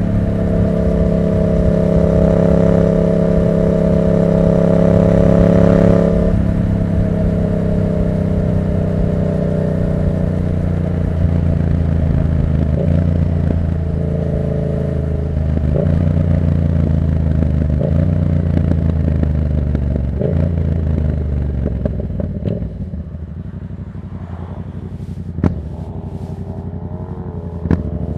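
Yamaha MT-07's 689 cc crossplane parallel-twin running through an open Black Widow exhaust with no dB killer while being ridden. It holds a steady, strong note for about six seconds, then the throttle closes and the engine note drops in a series of steps. It runs quieter and lower near the end, with one sharp crack from the exhaust.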